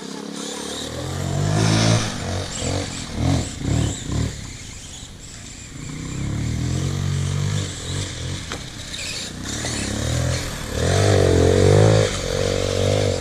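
Carbureted enduro motorcycle engine being ridden, revving up and down with several short throttle blips, then held at higher revs near the end.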